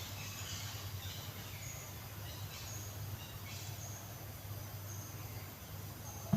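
Outdoor ambience: many short, high-pitched chirps come and go over a steady low hum.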